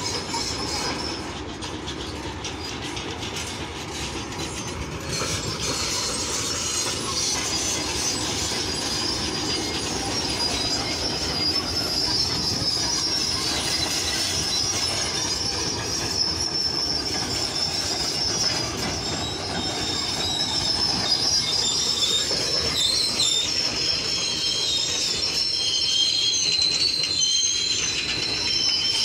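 A train running on the rail lines, a steady noise with high wheel squeal that is strongest in the second half.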